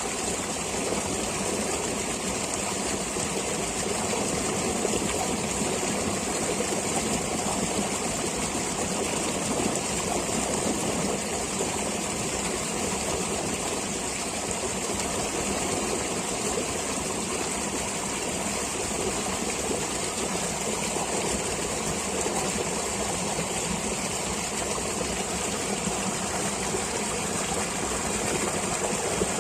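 Flowing stream water, a steady even rush with no pauses.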